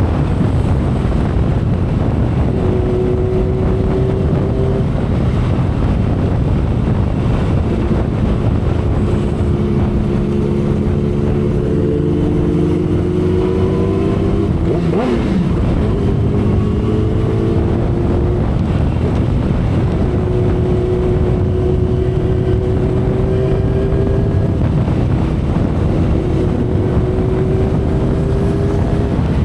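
2012 Kawasaki Ninja ZX-10R's inline-four engine cruising at expressway speed. Its note mostly holds steady, with a few slow rises in pitch, under heavy wind rush on the camera microphone. A brief rising-and-falling sweep cuts through about halfway through.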